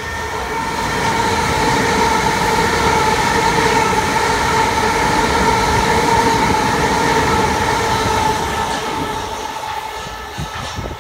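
Southern multiple-unit passenger train running into the platform and past close by: rumble and wheel noise with a steady whine of several pitched tones. It builds over the first couple of seconds and fades from about eight seconds in.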